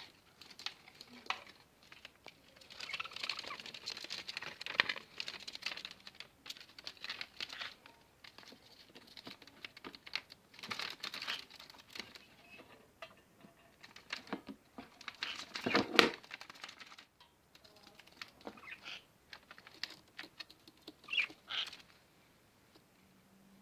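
Small pet parrots, budgies and a green-cheeked conure, making soft scratchy chatter along with tapping and scratching sounds, with one louder burst about sixteen seconds in and a few short chirps near the end.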